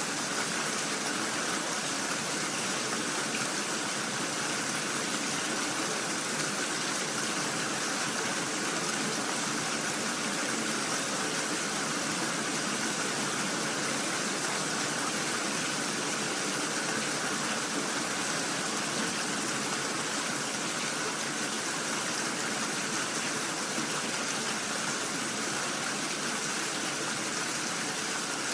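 Steady rainfall: an even, unbroken hiss of rain with no distinct drops or pauses.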